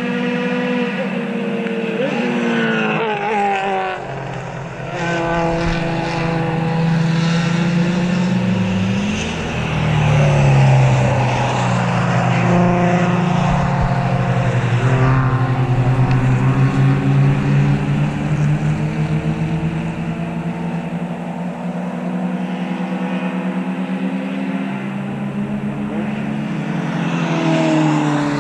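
Race cars passing one after another at full throttle, engines revving, several heard at once, with the pitch dropping as each goes by.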